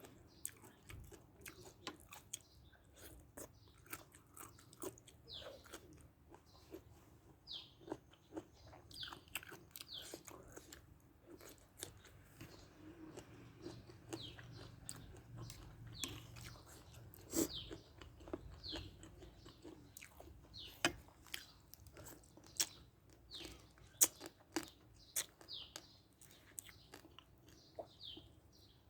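Close-up chewing and crunching of food: repeated crisp bites and wet mouth clicks, uneven in rhythm, with a few louder crunches.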